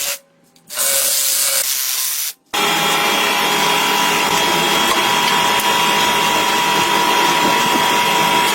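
A handheld power tool running steadily at full speed with a constant whine. It cuts out for a moment just after the start and again about two and a half seconds in.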